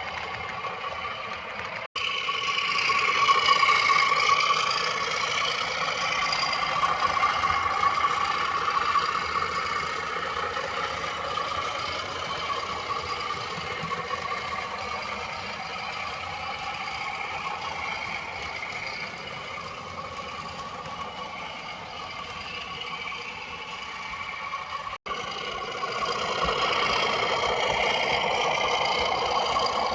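Sound decoder of an OO-gauge Class 66 model locomotive playing a diesel engine running sound through its small speaker, thin with little bass, along with the train running on the track. The sound breaks off abruptly about two seconds in and again near the end, then carries on at a different level.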